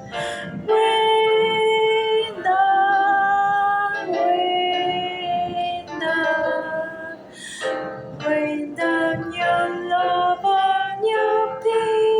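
Music: a woman singing slow, long-held notes over light accompaniment.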